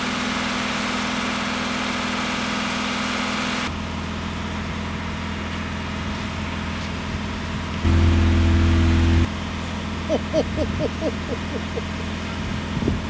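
Ford Mondeo Mk5 2-litre diesel engine running at a steady raised idle during a static DPF regeneration, smooth with no knocking or rattling. A louder low hum comes in for about a second and a half around eight seconds in.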